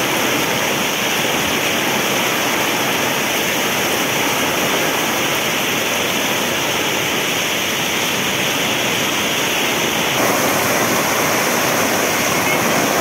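Heavy downpour: a dense, steady hiss of torrential rain, growing a little louder about ten seconds in.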